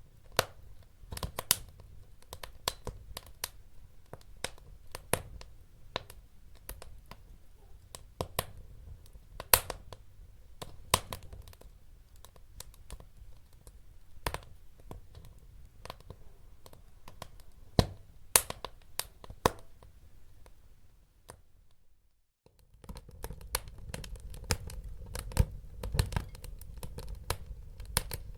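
Wood fire crackling: irregular sharp pops and snaps over a low rumble of burning. About three quarters of the way through the sound drops out for a moment, then the crackling comes back more densely.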